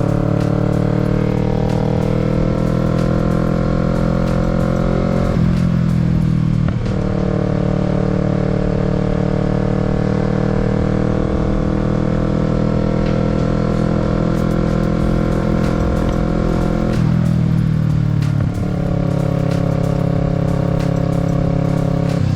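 Kawasaki Z650's parallel-twin engine pulling under throttle, its pitch climbing slowly. It breaks off and drops with a gear change about five seconds in and again about seventeen seconds in. Low rumble of wind on the microphone underneath.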